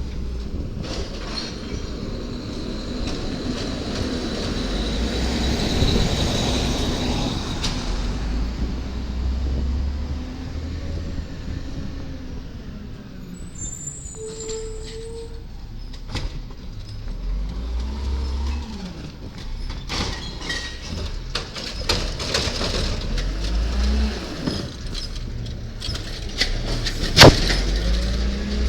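Garbage truck working its collection route: its engine rumbling and swelling in load, with a high whine early on from the working machinery and scattered metallic clanks. A single sharp bang near the end is the loudest sound.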